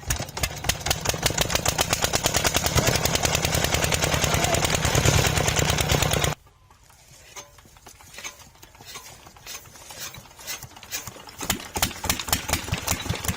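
Old diesel engine running with a rapid, steady knock of firing strokes. About six seconds in it cuts off abruptly to a quieter engine firing in irregular, spaced beats that come quicker and louder toward the end, like an old diesel catching during start-up.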